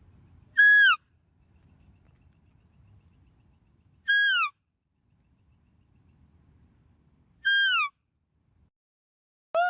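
Three short identical animal calls, evenly spaced about three and a half seconds apart; each is a brief clear note that drops in pitch at its end.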